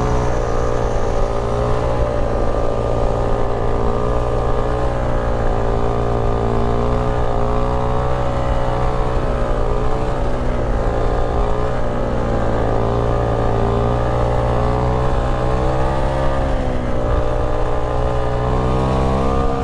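Honda Grom's 125cc single-cylinder four-stroke engine running under way at a steady cruising speed, its pitch drifting gently up and down with the throttle.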